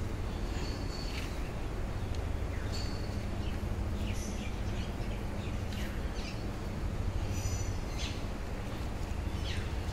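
Small birds chirping now and then, short high chirps and a few quick falling calls, over a steady low rumble.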